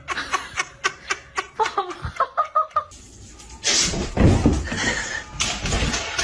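A person laughing in quick, short bursts, about four or five a second. From a little past halfway, a louder rushing noise takes over.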